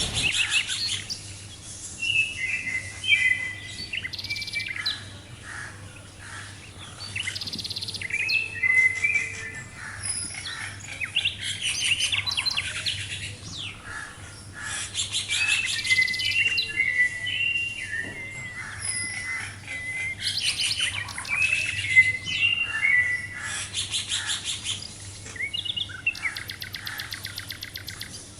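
Small songbirds chirping and twittering in quick runs of short, high whistles, with gaps of a second or two between runs.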